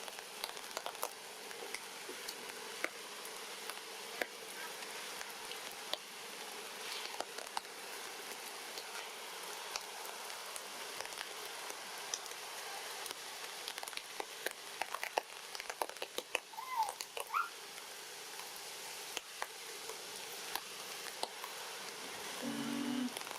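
Steady rain pattering, with many small drip clicks. Two short chirping calls come about two-thirds of the way through, and a brief low call comes near the end.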